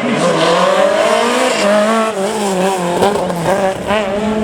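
Rally car engine driving a gravel special stage, its revs rising and falling again and again as the driver works through the gears and corners.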